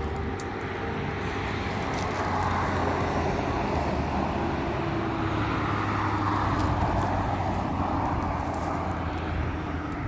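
A steady engine drone with a low hum, growing louder through the middle and easing off near the end.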